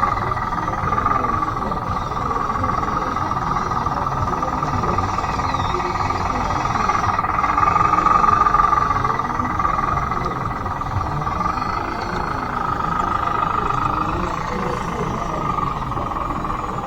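Small electric drive motors of a converted Bruder D5 RC bulldozer whining, the pitch steady and the level swelling and easing several times as it drives back and forth, over a gritty low rumble.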